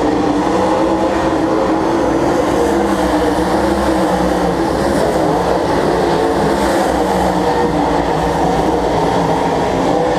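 Stock cars running together around an oval race track: several engines at once in a loud, steady drone, their pitches wavering as the cars circle.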